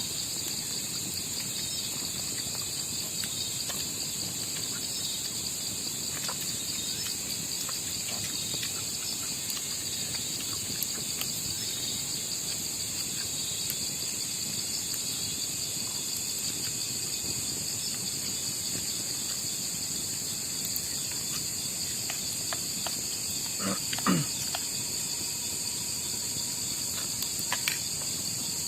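Steady, continuous chorus of crickets and other insects, high-pitched. About three-quarters of the way through there is one short, low sound that falls in pitch.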